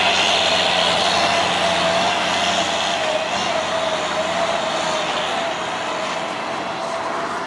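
Heavy truck engine running under load, a steady whine riding over its noise, gradually getting a little quieter.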